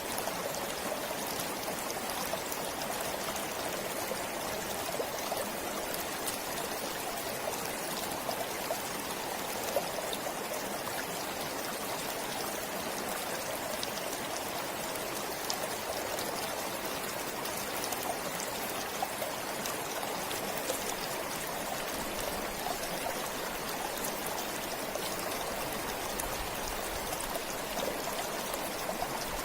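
A forest stream running steadily over rocks, a continuous rush of flowing water with small splashes and trickles.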